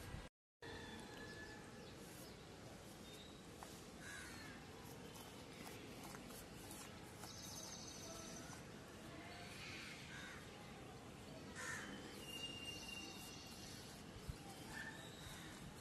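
Faint outdoor background with a few short bird calls scattered through it. The sound cuts out completely for a moment about half a second in.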